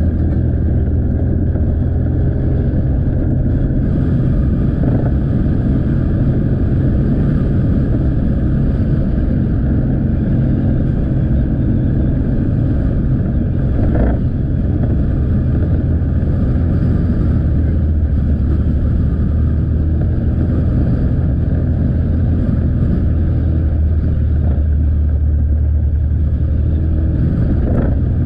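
Motorcycle engine running steadily while riding, with road noise, heard from the rider's position. A brief knock about halfway through.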